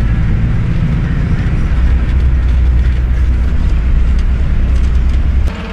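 A vehicle's steady low rumble heard from inside, with road or engine noise. It cuts off sharply just before the end.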